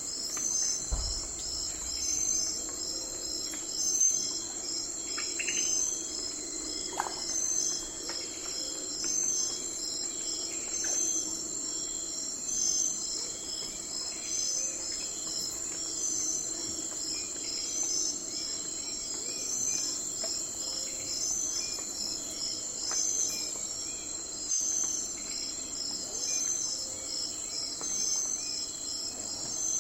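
Night forest ambience: a steady, dense chorus of crickets and other insects chirping high, with a louder chirp repeating at a regular beat. A few short bird calls come through about five to seven seconds in.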